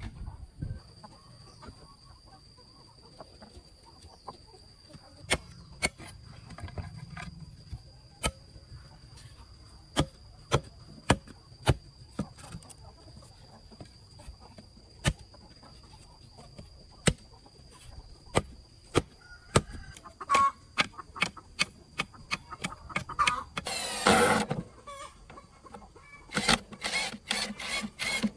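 Capons clucking now and then among many sharp, irregular taps and clicks, over a faint steady high whine. A louder noisy burst comes about 24 seconds in.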